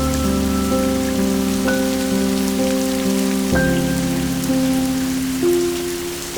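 Steady rain falling, with slow, soft instrumental music over it: held melody notes that change about every half second above a low sustained bass.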